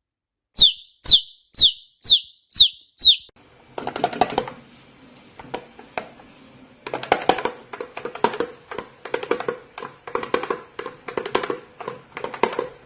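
A pet bird gives six sharp chirps, each falling in pitch, about half a second apart. These are followed by a long run of rapid clicking and scratchy ticking over a faint steady hum.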